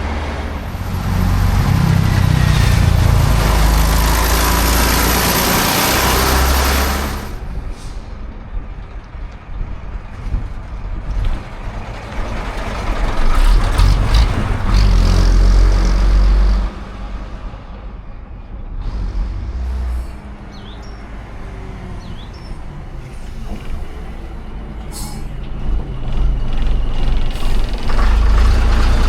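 Classic diesel buses running and moving, the engines a heavy low rumble, with a loud hiss of air brakes in the first several seconds.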